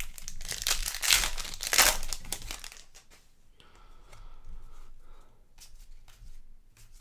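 Crinkly plastic trading-card pack wrapper being crumpled and torn open for about three seconds, followed by softer rustling as cards are handled.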